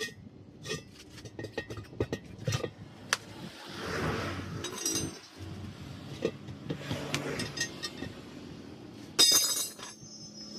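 Scattered clinks and knocks of hard objects being handled, with a louder sharp clatter about nine seconds in.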